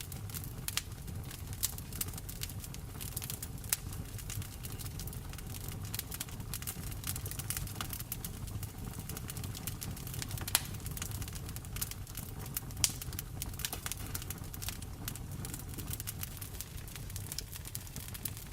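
Wood fire crackling with many small, irregular pops and a couple of sharper ones, over a steady low rain rumble.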